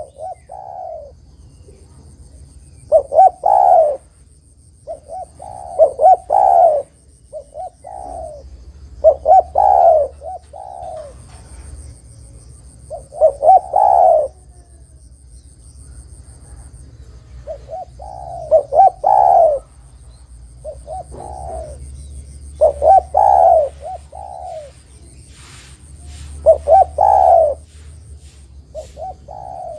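Spotted dove cooing: a phrase of a few short notes ending in a longer, louder coo, repeated about every two to four seconds.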